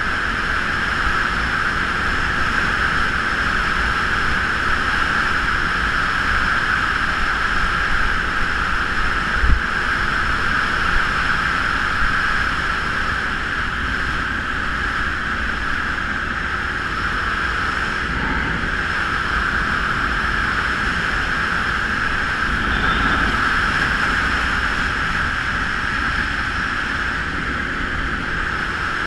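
Steady engine and wind noise of a Geon Scrambler 250 motorcycle on the move, with a single low bump about a third of the way through.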